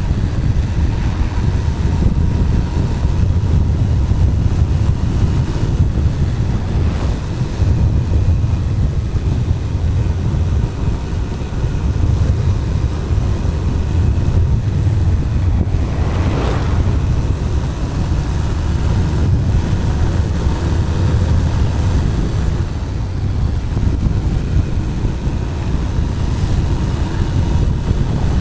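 Wind rushing over a helmet-mounted camera microphone at riding speed on a Bajaj Pulsar 220's single-cylinder engine, a steady heavy rumble, with a brief swell of noise about halfway through.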